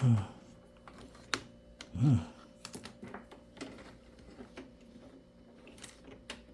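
Scattered light clicks and taps from cables and plastic computer parts being handled. There is a short low voice sound about two seconds in.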